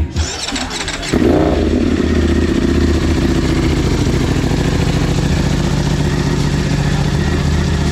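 Superbike engine starting about a second in, then idling steadily and loudly.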